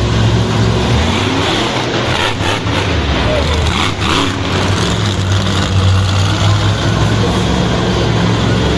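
Monster truck engine running loud with a steady low rumble, with a few short bursts of noise about two and four seconds in.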